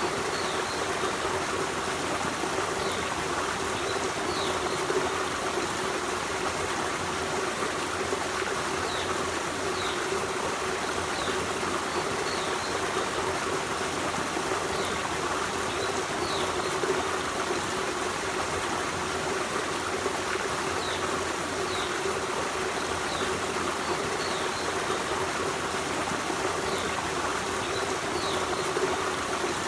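Forest stream running and trickling steadily over rocks, with faint short high chirps every second or two.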